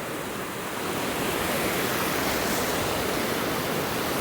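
Ocean surf breaking and washing on a beach: a steady rush that swells slightly about a second in.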